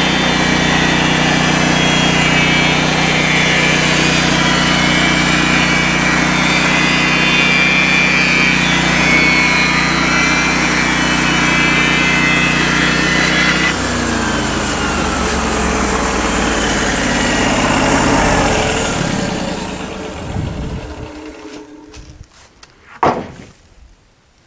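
A portable band sawmill's 16 hp engine runs steadily, then is shut off about 14 seconds in; its pitch falls as the engine and band wheels spin down over several seconds. A single short ringing knock follows near the end.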